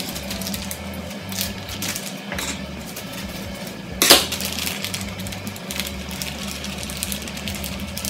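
Crinkling of a plastic bag of grated cheese being opened and handled, with a single sharp knock about four seconds in, over a steady low hum.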